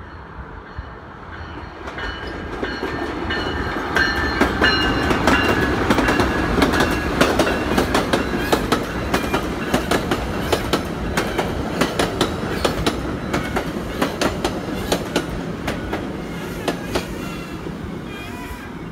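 MARC commuter train of bilevel passenger cars passing close by at speed: it grows louder from about two seconds in, then a long run of wheels clacking over rail joints, and eases off near the end as it moves away.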